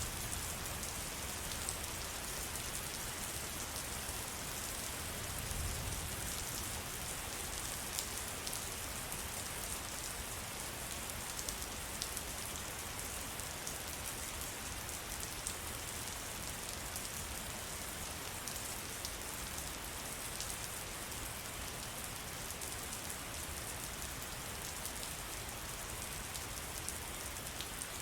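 Steady rain falling in a forest, with single drops ticking close by now and then.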